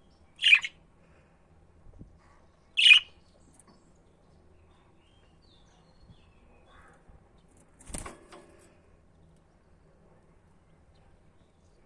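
Budgerigar giving two short, loud chirps about two seconds apart, with a faint call later, then a brief rustling thump about eight seconds in.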